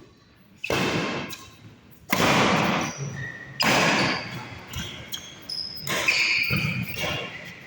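Badminton rally in a large hall: sharp racket strikes and footfalls on the court about every one and a half seconds, each ringing briefly in the hall, with short high shoe squeaks between them.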